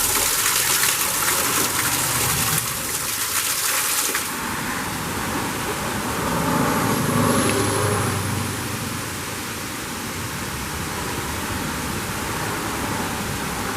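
Steady rush of water falling at a waterfall. The bright hiss softens about four seconds in, and a deeper swell comes and goes a few seconds later.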